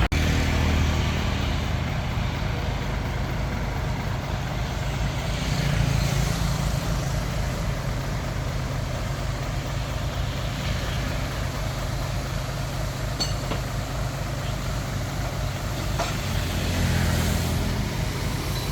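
Diesel engine of a Hitachi DX45M bulldozer running under work, swelling a few times as it takes load, with a couple of light clanks.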